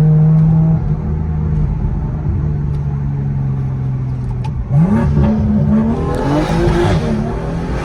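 Straight-piped, BM3-tuned BMW M2's turbocharged straight-six heard from inside the cabin. It runs steadily at first, then about five seconds in it is floored: the revs shoot up and the pitch keeps climbing in steps while the exhaust grows louder.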